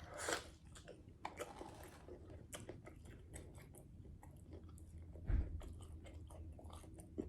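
A person chewing food quietly, with many small mouth clicks, and a low thump about five seconds in.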